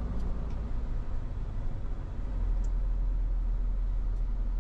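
Tow truck's engine running as the truck rolls in slowly, a steady low rumble that grows stronger about two seconds in.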